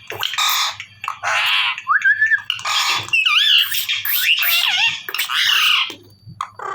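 Pet parrot giving a series of loud, harsh squawks, with a few whistled, wavering notes mixed in between about two and four seconds in.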